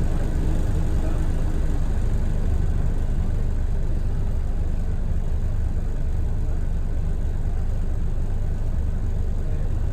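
Scania DSC1171 11-litre six-cylinder diesel of a Scania L113TRB bus running steadily with a deep, even rumble.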